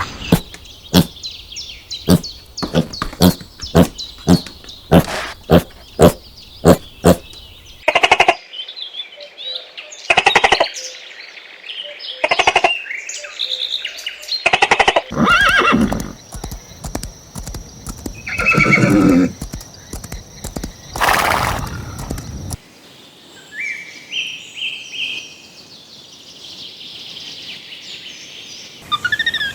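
Horses: a run of sharp, evenly spaced knocks, about two a second, for the first eight seconds or so, then several neighs and whinnies.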